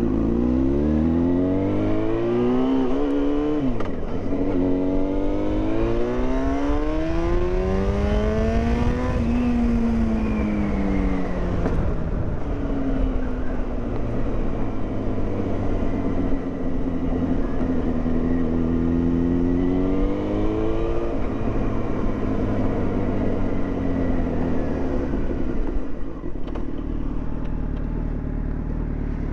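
Yamaha FZ6's 600 cc inline-four engine under way, its pitch climbing under acceleration and dropping sharply at a gear change about four seconds in. It climbs again, falls away as the throttle eases, holds a fairly steady cruise, then drops once more about two-thirds of the way through.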